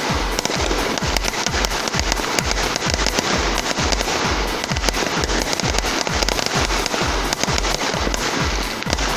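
Fireworks crackling and popping in dense, irregular bursts, over music with a steady thumping beat of about two beats a second.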